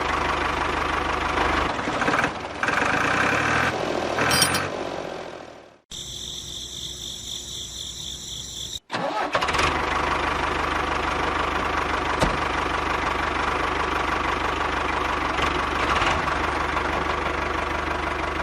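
An engine-like running sound, steady with a low hum. It fades out about six seconds in and gives way to a higher, thinner whine for about three seconds, then starts again and runs steadily.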